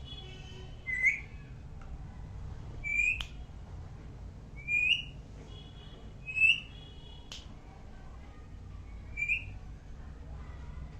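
Pet parrot giving five short whistles, each a quick upward-curving note, spaced about two seconds apart, with fainter held whistle tones between them.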